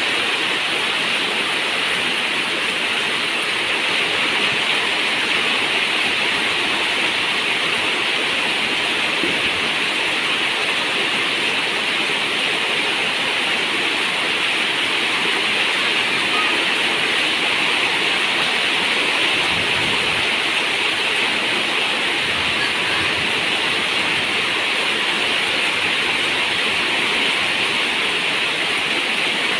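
Rain falling steadily on a zinc roof, an even, unbroken hiss.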